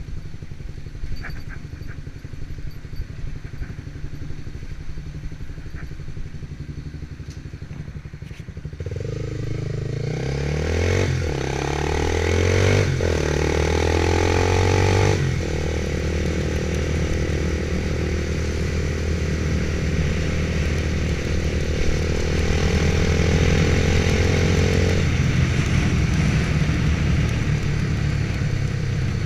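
Motorcycle engine running low at first, then pulling away about nine seconds in. It accelerates through several gear changes, then runs steadily at speed with a rushing road and wind noise.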